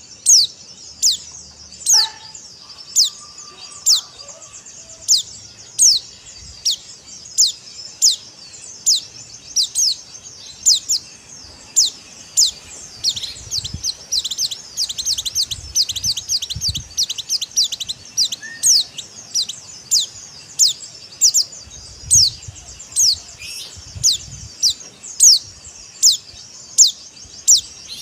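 Pleci (a white-eye, Zosterops) calling: a steady run of sharp, high, downward-sliding chirps, about one to two a second, with softer twittering between them.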